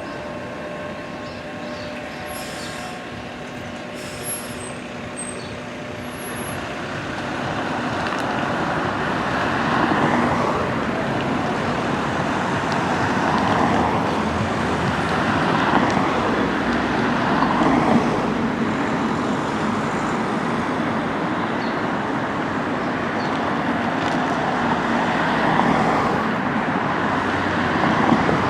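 Passing vehicle noise. Steady whining tones fade out over the first few seconds, then a broad rushing sound builds about seven seconds in and rises and falls in swells every couple of seconds.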